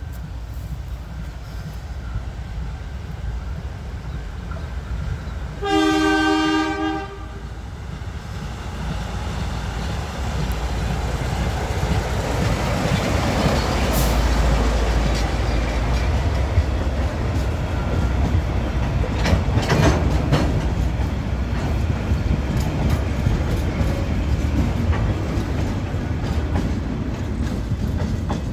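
Former Emu Bay Railway 11 class diesel locomotive hauling the cement train: one horn blast of about a second, about six seconds in, then the locomotive and wagons approach and pass. Engine rumble and wheel noise build and stay loud, with clicks of wheels over rail joints around twenty seconds in.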